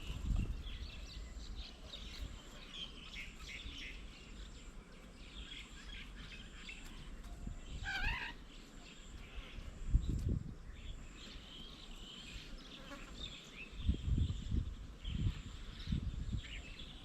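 Small birds chirping and calling in a steady scatter of short high notes, with one louder call about eight seconds in. Several low dull thumps come near the middle and again near the end, the first of them the loudest sound.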